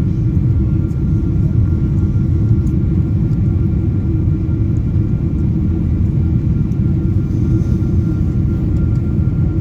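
Steady cabin noise of a Boeing 777 climbing after takeoff: a loud, even low rumble of engines and airflow with faint steady high tones above it.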